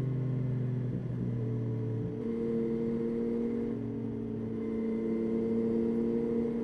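Yamaha Tracer 9's three-cylinder engine running at fairly steady revs while riding, its note shifting about two seconds in.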